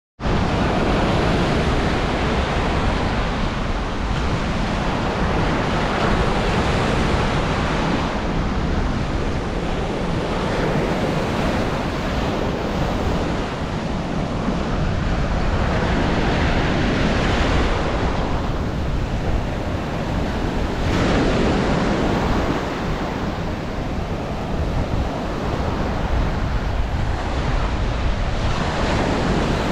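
Ocean surf breaking on a beach, a continuous wash that swells every few seconds as waves come in, with wind rumbling on the microphone.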